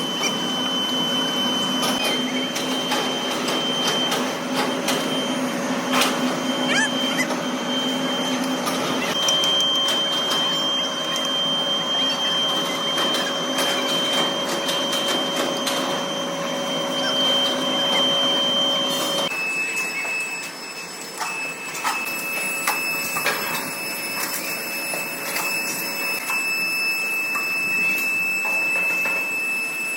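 Metalworking machine running in a workshop: a steady high whine and hum with scattered clicks and knocks. The whine's pitch steps down abruptly about two-thirds of the way through.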